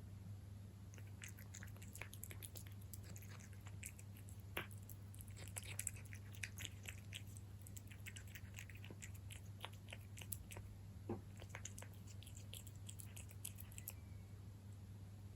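A cat chewing wet food (MiawMiaw Juicy), many small irregular wet clicks and smacks. A steady low hum runs underneath.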